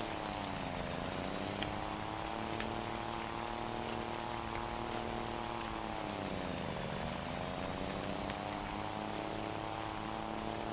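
Scania Super 540 truck engine running through a straight-through exhaust, a steady deep note whose revs dip twice, about a second in and again near the seven-second mark, then climb back up.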